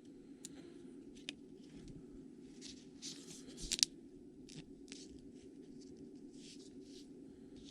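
Trading cards being handled: faint rustles and light scrapes with a few soft clicks, the sharpest about four seconds in, over a low steady hum.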